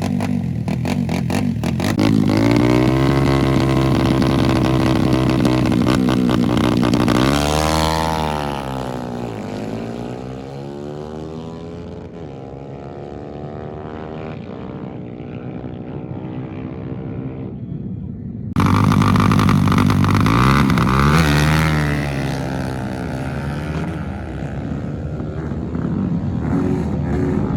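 Racing motorcycle engines at full throttle on a drag strip. One revs up and passes, its pitch dropping as it moves away and fades. About two-thirds in, the sound cuts abruptly to another loud engine revving up and down.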